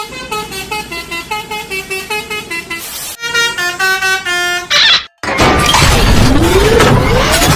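Basuri telolet musical bus horn playing a quick tune of short stepped notes, in two phrases. About five seconds in it gives way to a loud noisy rumble with a rising whine.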